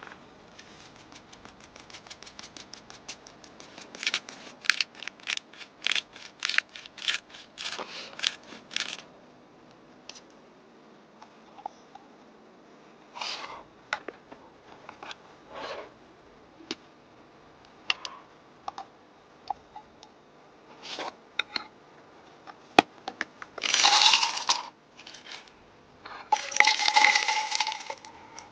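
Close handling sounds: a quick run of sharp taps and clicks, about three or four a second, then scattered clicks, and two short rustling bursts near the end.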